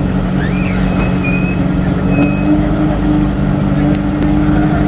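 A car engine idling steadily, its note holding level with no revving. A few faint, short high chirps sound over it in the first couple of seconds.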